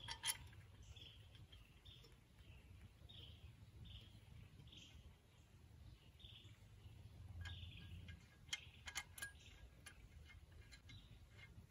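Faint bird chirping, one short falling note repeated about twice a second, over quiet outdoor background noise. In the second half come a few light clicks, most likely from the shoulder bolts being handled and threaded into the flywheel.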